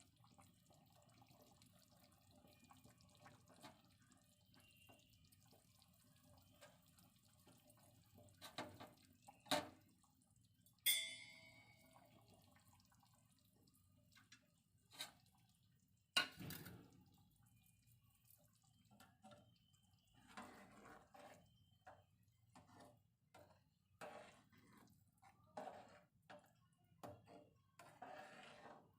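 Faint kitchen clatter: a few sharp knocks of utensils and one ringing metal clink about eleven seconds in, then a run of small clicks and taps near the end.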